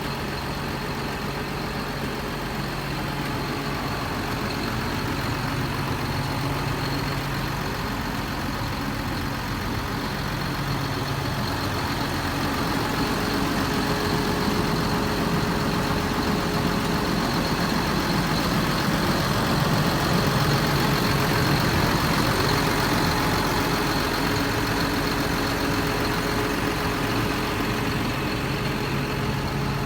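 John Deere 7830 tractor's six-cylinder diesel engine running steadily, growing a little louder through the middle and easing back near the end.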